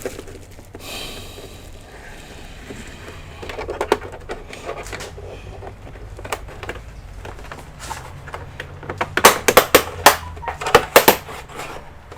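Scattered clicks and knocks of hard plastic and small parts being handled during disassembly of an all-in-one computer, building to a quick run of loud, sharp clicks about nine to eleven seconds in.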